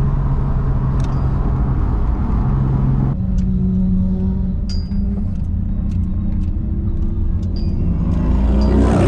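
Nissan 350Z's V6 engine and exhaust running while driving in slow traffic. The engine note steps up about three seconds in and rises near the end as the car accelerates, with a few short high chirps in between.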